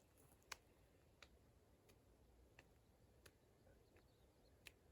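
Near silence broken by faint, evenly spaced clicks, about one every 0.7 seconds: hands catching a rubber medicine ball as it is passed around the body.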